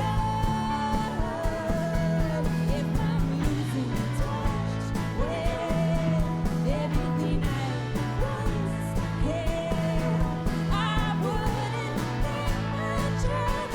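Live band playing a song: a woman singing over guitar, bass and drums with a steady beat.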